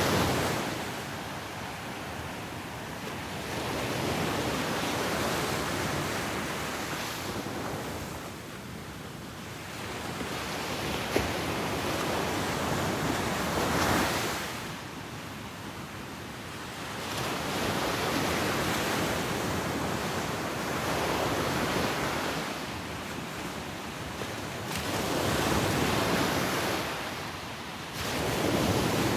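Ocean waves breaking and washing up a beach, rising and falling in slow surges, loudest at the start, about halfway through and near the end.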